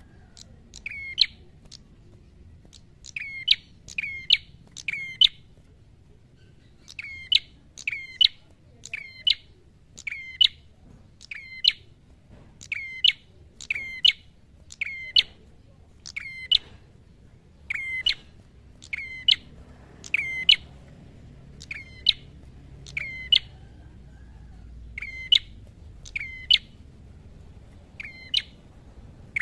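Caged red-headed prenjak calling vigorously in 'gacor' fighting mode: a loud, sharp chirp repeated about once a second, with a couple of brief pauses.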